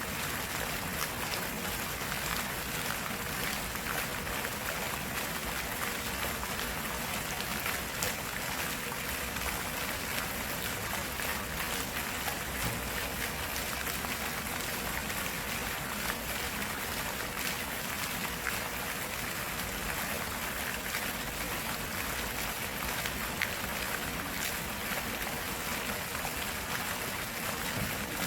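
A stream of running water flowing steadily, a continuous rush with many small splashes.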